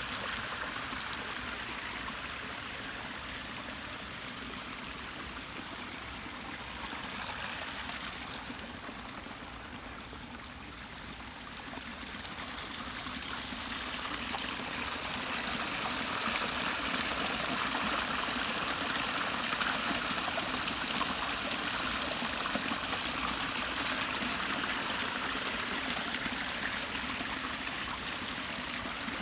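Garden waterfall: a steady rush of falling, splashing water that eases about ten seconds in and grows louder from about fifteen seconds on.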